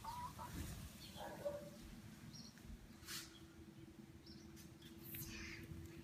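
Faint, scattered short bird calls and chirps, with a faint steady low hum that starts about a second in.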